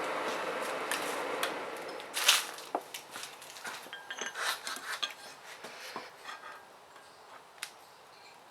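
Steel pieces and tools clinking and knocking against each other in a blacksmith's shop: a scatter of sharp clinks, the loudest about two seconds in, after a steady hiss over the first second and a half.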